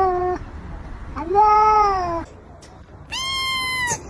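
A cat meowing in long, drawn-out calls. One call ends just after the start, another begins about a second in and rises then falls, and a higher, shorter one comes near the end.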